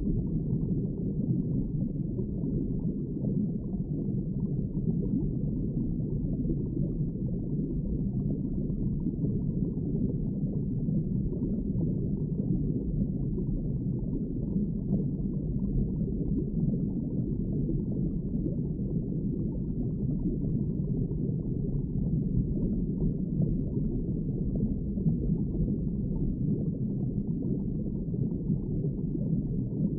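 Steady underwater ambience: a low, muffled rumble of water with no distinct events.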